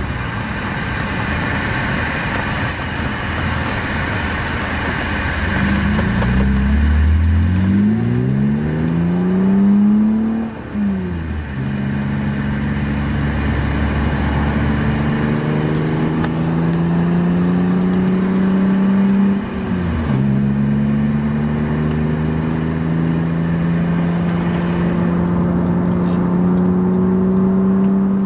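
BMW E36 M3's 3.2-litre straight-six heard from inside the cabin through a UUC RSC36 cat-back exhaust. About six seconds in it revs up through a gear, then the note drops at a gear change near ten seconds. After that it settles into a steady cruising note that rises slowly, with one short dip near twenty seconds.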